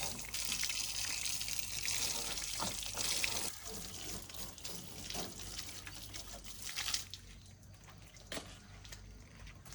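Running water, a steady hiss that weakens after a few seconds and stops about seven seconds in, followed by a few sharp knocks.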